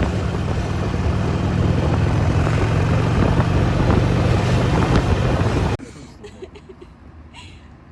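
Steady engine and road noise of a vehicle being driven, which cuts off abruptly about six seconds in, leaving a much quieter background with a few faint clicks.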